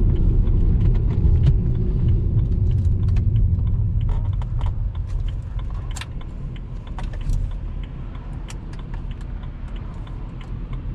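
A car running on the road: a steady low engine and road rumble, easing off a little about halfway through, with scattered small clicks and rattles over it.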